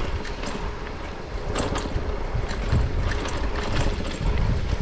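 Riding noise from an e-bike on a road: a steady rumble of wind on the microphone and tyres, with a few light clicks and rattles.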